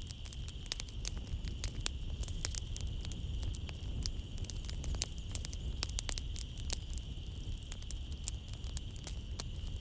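Wood fire crackling in a fireplace: many irregular sharp pops and snaps over a steady low rumble of the flames, with a steady high-pitched hum behind it.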